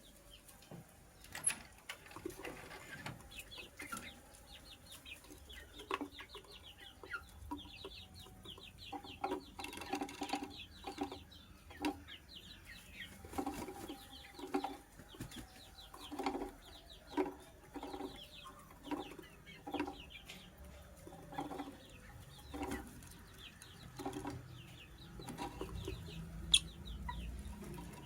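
Lovebird chirping and chattering in short calls, coming about one or two a second through the middle, with a single sharp click near the end.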